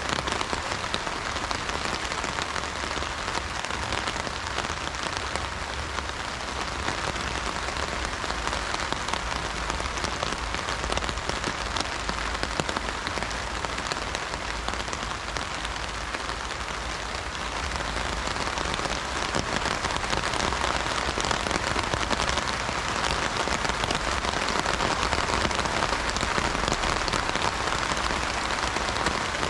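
Heavy rain falling steadily on an umbrella, a dense hiss of drops that grows a little louder about two-thirds of the way through.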